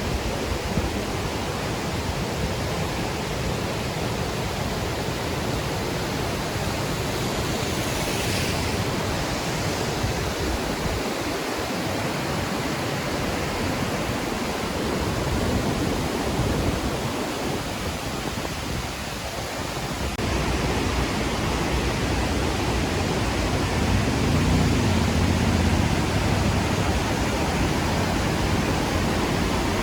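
Låtefossen twin waterfall pouring: a loud, steady rush of falling water. It grows a little louder and deeper about two-thirds of the way in.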